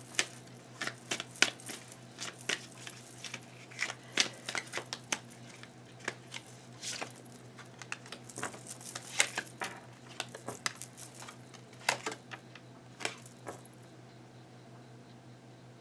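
Tarot cards handled on a table: irregular light clicks, snaps and rattles of the cards being turned, shuffled and laid down, thinning out about 13 seconds in, over a steady low hum.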